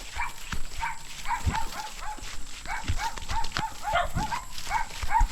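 Footsteps on a dirt path, with a fast run of short, repeated chirps, about three or four a second.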